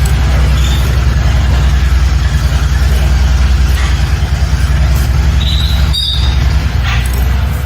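A loud, steady low rumble with a fast flutter, with a few faint high bird chirps above it.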